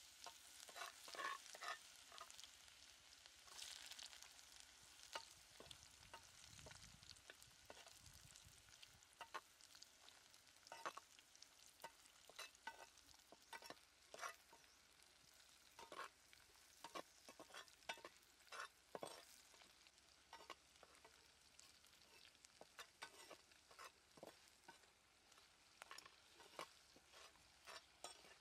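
Minced garlic, then chilli peppers, sizzling in hot oil in a clay pot, stirred with a spatula that scrapes and knocks against the pot many times. The sizzle is strongest in the first few seconds.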